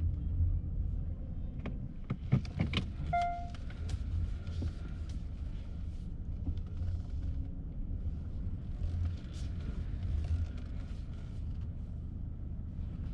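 Steady low rumble of a car, with a few clicks about two to three seconds in and a short single beep just after.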